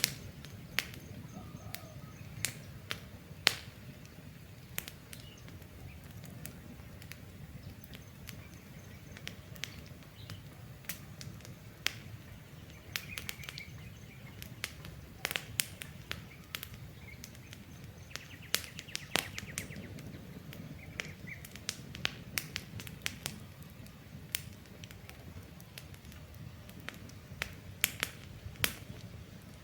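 Wood campfire crackling, with irregular sharp pops over a steady low rumble of burning, while birds chirp faintly now and then.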